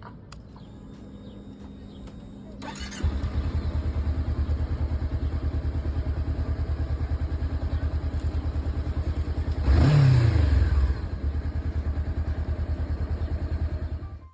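Honda motorcycle engine starting about three seconds in, then idling with a steady fast low beat. It revs briefly once, rising and falling, about ten seconds in, and the sound cuts off suddenly at the end.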